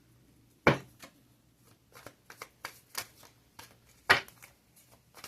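Tarot cards being handled and shuffled: a sharp slap of cards less than a second in and another about four seconds in, with a run of light flicks and taps between.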